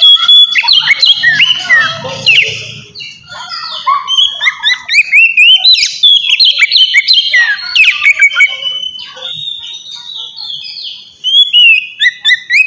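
Oriental magpie-robin (kacer) singing loudly: a fast, varied run of whistled phrases, slurred glides and chattering notes. It eases briefly about three seconds in and again near ten seconds.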